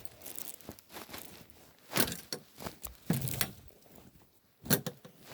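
Scuffling and tapping as a cat bats and pounces at a wand toy, with a few sharp knocks about two, three and four-and-a-half seconds in.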